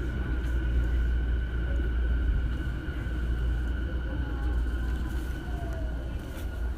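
Running sound of a JR East E233 series 0 electric train heard from inside the car: a steady low rumble with a steady high whine over it, easing slightly in loudness toward the end.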